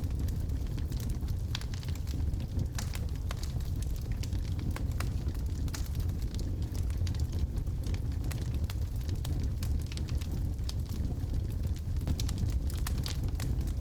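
Wood logs burning in a fireplace, with a steady low rumble of the fire and frequent sharp, irregular crackles and pops.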